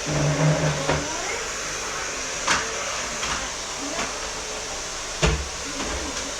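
Bagged vacuum cleaner running steadily with a whooshing hiss, with two sharp knocks from the cleaning head or hose, about two and a half seconds and five seconds in.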